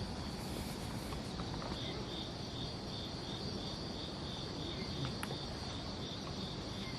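Insects, crickets, trilling steadily in a high-pitched chorus, with a pulsing chirp repeating a few times a second from about two seconds in. A single sharp click comes near the end.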